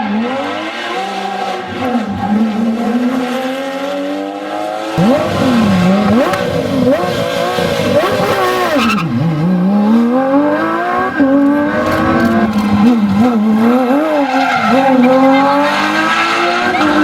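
Porsche 911 GT3 RS rally cars' flat-six engines revving hard through gear changes, the pitch climbing and then dropping sharply again and again. Several short clips are spliced together, with abrupt cuts about five and nine seconds in.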